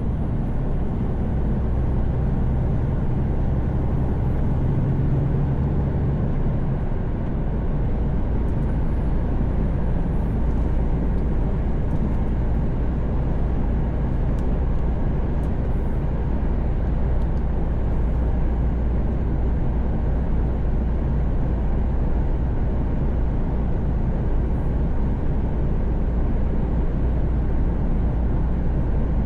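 Mercedes Actros truck cab at highway speed: the diesel engine's low drone and road and tyre noise. The engine note shifts slightly about seven seconds in.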